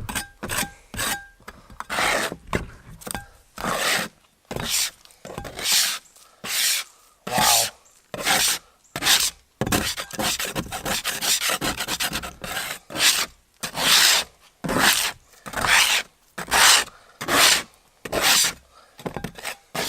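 Metal scraping spatula pushed in short, repeated strokes under old carpet and its adhesive on a boat deck, each stroke a quick rasping scrape, about one a second. The carpet is lifting away easily.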